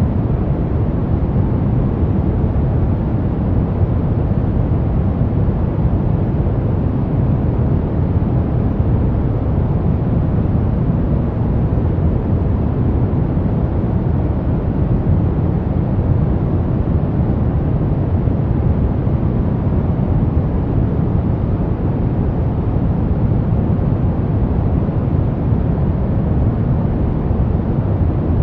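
Brown noise: a steady, deep rumbling hiss with no changes, strongest in the low end.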